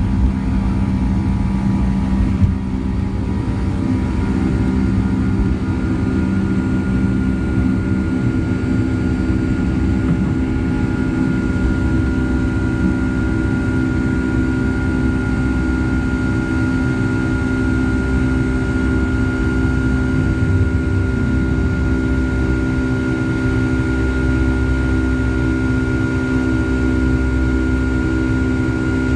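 Boeing 757-200 jet engines heard from inside the passenger cabin during climb-out after takeoff: a steady, loud rumble with several humming tones. About two and a half seconds in, the hum changes pitch and a higher steady whine settles in.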